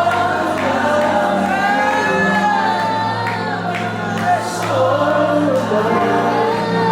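Congregational worship music: a band with sustained keyboard and bass chords under voices singing a slow, drawn-out melody.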